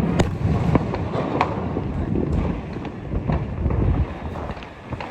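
Fireworks and firecrackers going off: a dense run of sharp cracks and bangs over a continuous low rumble, easing slightly near the end.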